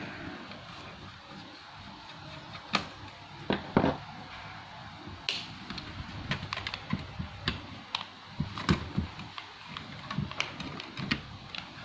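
Irregular clicks and taps from an Asus X441B laptop's plastic case being handled during disassembly, with a few louder knocks about three to four seconds in, then a quick scatter of small clicks.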